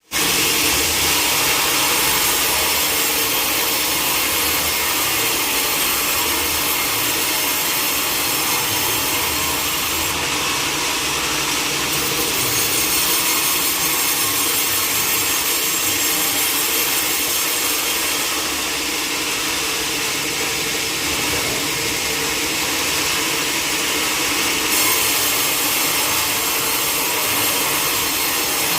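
Sawmill saw cutting lengthwise through a log with a steady, continuous sawing noise; it grows a little hissier twice along the way.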